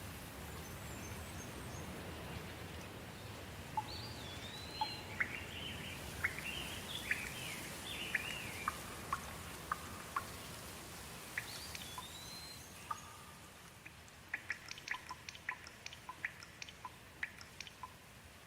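Soft rain falling steadily, with a bird's whistled calls that rise and fall through the middle. Later the rain hiss eases and a run of short sharp ticks, like drips, comes several times a second.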